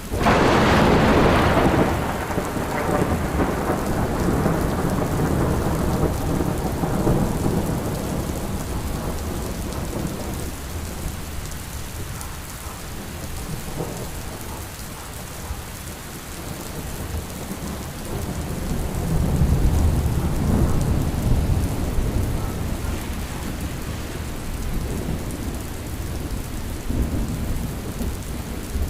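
Steady rain with thunder: a sharp, loud thunderclap right at the start that rolls off over several seconds, then a second, lower rumble of thunder about twenty seconds in.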